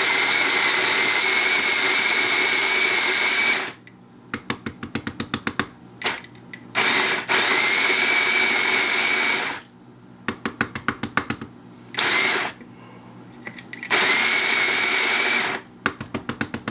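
Krups GX610050 electric conical burr grinder grinding coffee beans in short runs: its motor runs with a steady high whine for a few seconds, stops, and starts again, four times, the third only a short blip. Between runs comes a quick series of sharp taps, several a second.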